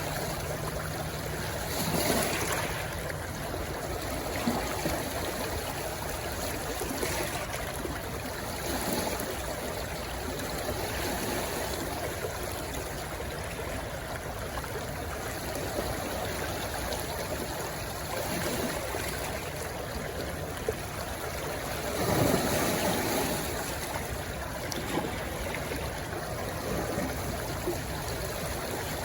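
A rushing stream flowing into the sea, its water running steadily with small swells in loudness about two seconds in and again near the end.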